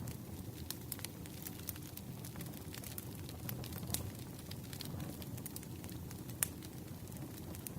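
Campfire of burning logs crackling: a steady low rush of flame with frequent irregular sharp pops, one louder pop a little past six seconds in.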